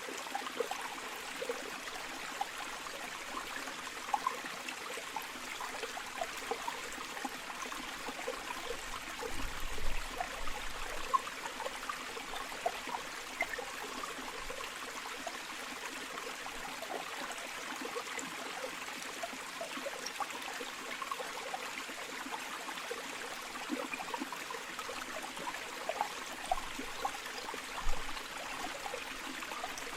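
River water flowing steadily, with many small gurgles and splashes over an even rush. Two brief low bumps stand out, about a third of the way in and near the end.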